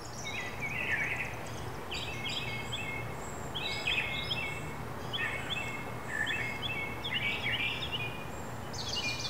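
Outdoor ambience of songbirds singing in short, repeated chirping phrases, over a steady low hum.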